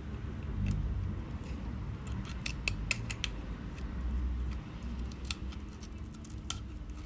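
Metal blade scraping leftover glue and broken glass fragments off an iPhone 11's rear housing: irregular sharp clicks and scrapes, coming in two clusters, over a steady low hum.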